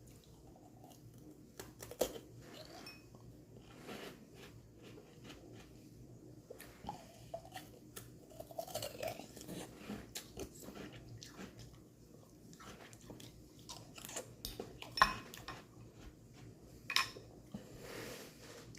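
Close-up biting and chewing of a frozen strawberry lemonade popsicle, with scattered crunches of ice and a few sharper, louder bites, the loudest near the end.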